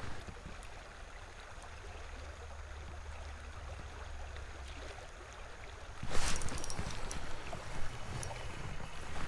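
Creek water running through shallow rapids, a steady rush with a low rumble underneath. About six seconds in it turns louder, with sharp clicks mixed in.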